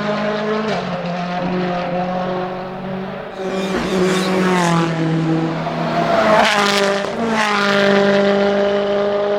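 Rally car engine running hard, its pitch stepping up and down through gear changes, with a few sharp cracks; it is loudest about two thirds in.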